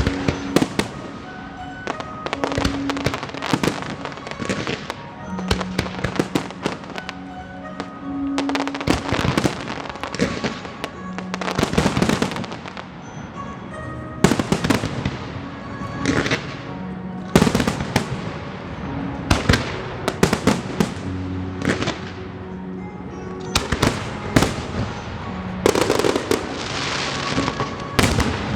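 Aerial fireworks display: a steady run of shells bursting with sharp bangs and crackling, several in quick clusters, over a musical soundtrack with held notes.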